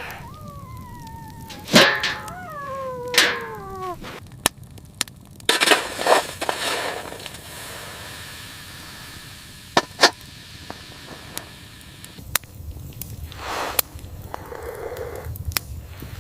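A domestic animal's whining cries, several in the first few seconds, each falling in pitch. They are followed by scattered sharp cracks and snaps.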